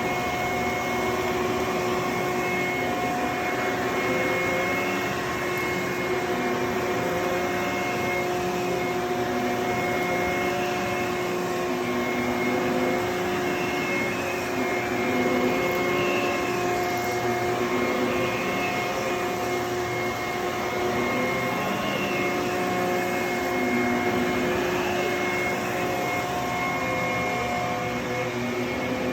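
HYLA water-filter vacuum cleaner running steadily over carpet with a constant motor whine. Fainter tones rise and fall every couple of seconds as the cleaning head is pushed back and forth.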